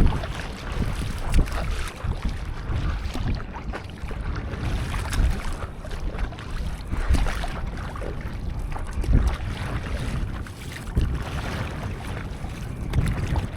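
Wind rumbling on the microphone over water splashing and lapping around a stand-up paddleboard, with irregular louder splashes.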